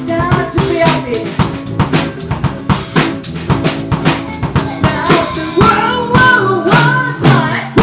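A live band playing an instrumental passage: a drum kit keeps a busy beat of snare and bass drum hits under sustained bass and a melodic line that bends in pitch in the second half.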